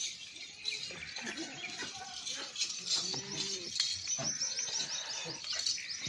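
Small birds chirping in quick, repeated high twitters.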